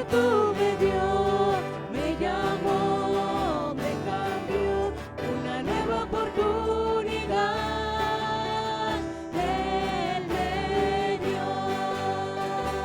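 Christian praise song: voices singing held notes over an instrumental accompaniment.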